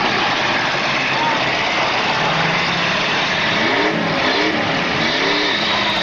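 Demolition derby car engines revving hard over a constant din of engines; in the second half the pitch swings up and down several times as the drivers gun and lift off the throttle.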